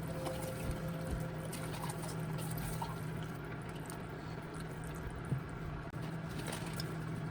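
Faint liquid sounds from a pot of tomato-based vegetable soup: soft bubbling and small scattered ticks over a low steady hum.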